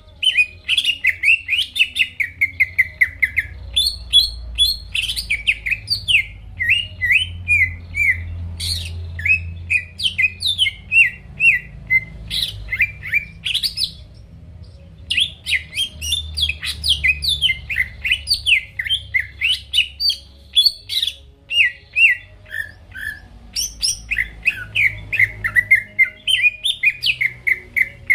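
Cucak ijo (leafbird) singing a fast, unbroken run of chirps and slurred whistled notes, with a brief pause about halfway through. A low hum runs underneath.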